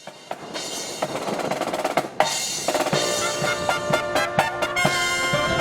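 Marching band fanfare: a snare drum roll builds for about two seconds to a loud hit, then brass instruments sound held chords over drum strikes. Strong wind buffets the microphone throughout.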